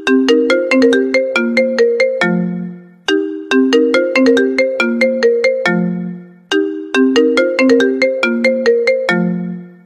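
iPhone ringtone playing: a short melody of quick struck notes that repeats three times, each pass ending on a lower note that fades away before the next begins.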